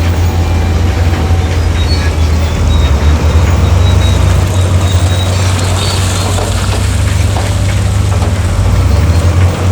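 Heavy diesel earthmoving machinery running steadily and loudly, with a deep, constant engine drone.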